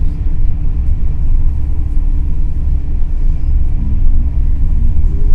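NS ICNG electric intercity train running, heard from inside the carriage: a steady low rumble with a steady hum.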